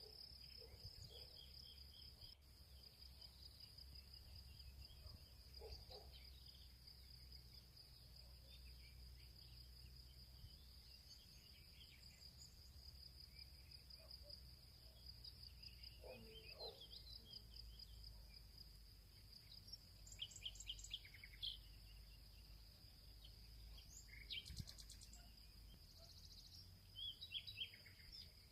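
Faint field ambience: a steady high insect trill, like crickets, runs throughout, with scattered bird chirps and calls over it, a few clustered about two-thirds of the way in and near the end.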